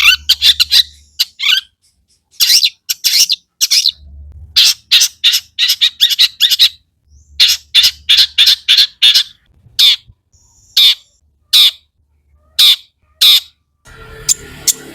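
Long-tailed shrike (cendet) singing a fast chattering series of short, harsh, squawky notes in bursts with brief pauses between them. A faint steady hiss comes in behind it near the end.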